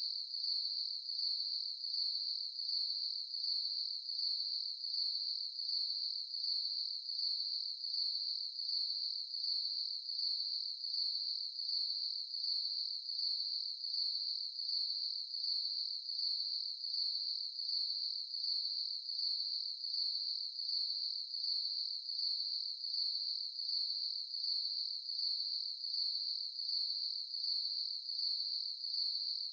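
Crickets chirping: a steady high-pitched trill that pulses evenly, a bit under two chirps a second.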